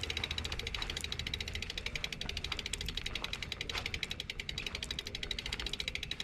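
Bicycle rear-hub freewheel ratchet clicking rapidly and evenly as the wheel rolls without pedalling.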